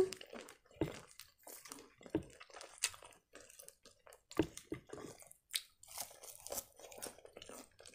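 Quiet chewing of fried cheburek pastry and crisp lettuce: a string of short, irregular crunches and clicks.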